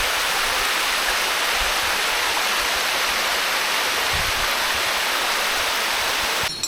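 Steady rush of falling water from a waterfall, a loud even hiss that cuts off abruptly near the end.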